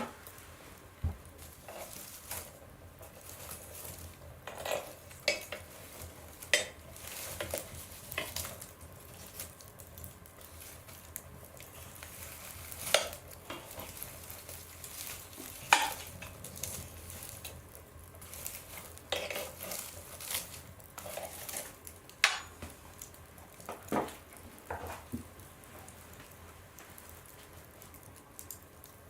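Wood fire crackling in a stove, with irregular sharp pops over a faint steady hiss; two pops, about 13 and 16 seconds in, are the loudest.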